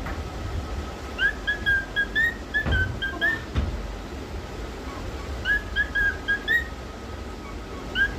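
Pet cockatiel whistling a short learned tune of quick rising and falling notes, singing the same phrase twice and starting it again at the end. Two dull low thumps fall in the first half.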